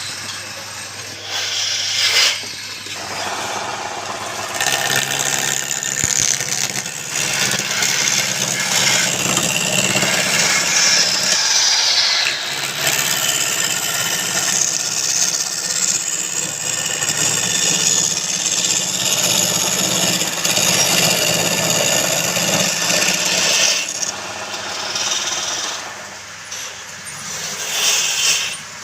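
Wood lathe running with a steady motor hum while a cutting tool rasps against the spinning wood. The cutting noise swells and eases, dropping back for a couple of seconds near the end.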